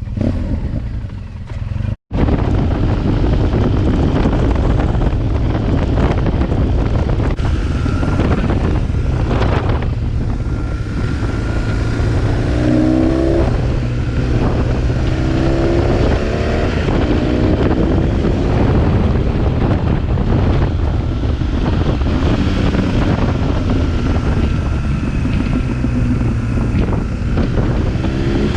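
BMW R 1200 GS boxer-twin motorcycle with an aftermarket SC Project exhaust, running steadily under way, with wind buffeting the microphone. The sound cuts out for an instant about two seconds in, and around the middle the engine pitch rises several times as the bike accelerates.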